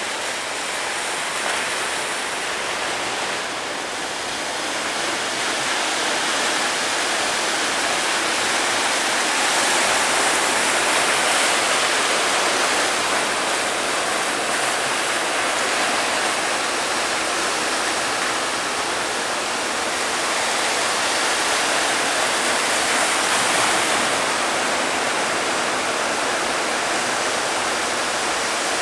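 Continuous rush of big ocean waves breaking as surf, swelling louder twice.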